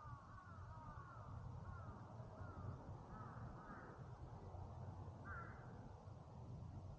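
Faint crows cawing: a quick series of short calls, then a few scattered ones, the last about five seconds in, over a low steady rumble.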